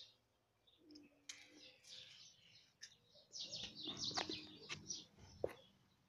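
Small birds chirping in quick, faint runs, busiest in the second half. A scuffling rustle with a few sharp clicks comes under the chirps about three and a half to five and a half seconds in.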